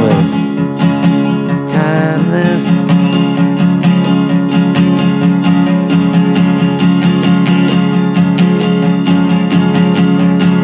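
Music: an acoustic guitar strumming chords in a steady, even rhythm.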